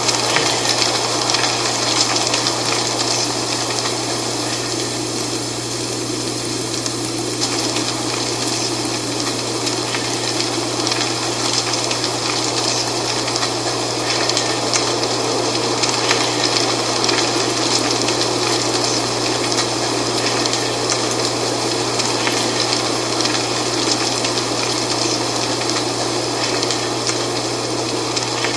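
Wind blowing through dry fall leaves, a steady rushing with a fine, continuous crackle of rustling leaves, over a steady low hum.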